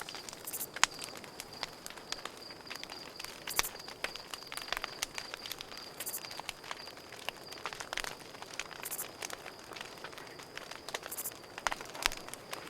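Campfire crackling, with many sharp pops at uneven intervals, over a cricket chirping in a steady, fast pulse. A short, very high buzz comes in every two to three seconds.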